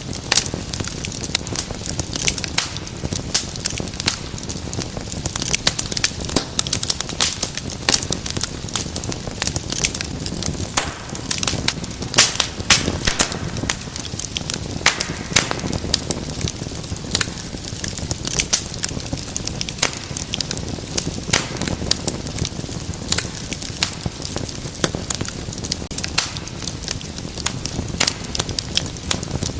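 Wood fire crackling, with dense irregular sharp pops and snaps over a steady low rumble of burning.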